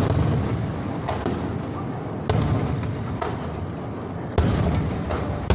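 Aerial firework shells bursting high overhead: sharp booms about every two seconds, each trailing into a long rolling rumble, with lighter crackles between.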